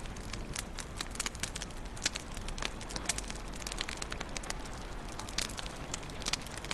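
Wood fire crackling in a fireplace: a steady low hiss of flames with frequent irregular sharp pops and snaps.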